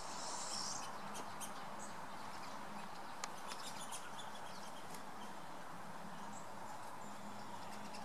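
A few faint, short, high chirps of small songbirds over a steady background hiss.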